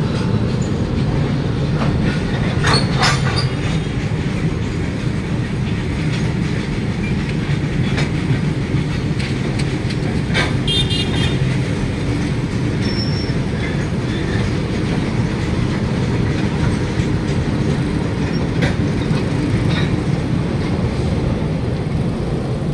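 Freight train wagons rolling past at close range: a steady rumble of wheels on rail, with sharp clanks about three seconds in and a brief high wheel squeal around ten to eleven seconds in.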